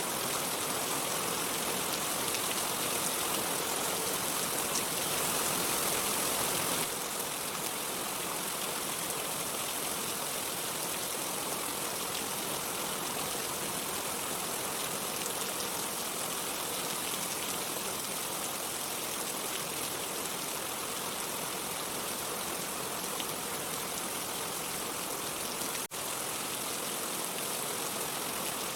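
Steady rain falling, an even hiss of water with no thunder, that briefly cuts out near the end.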